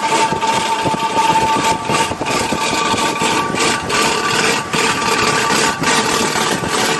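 A motor vehicle's engine and road noise, loud and steady, with some rattling.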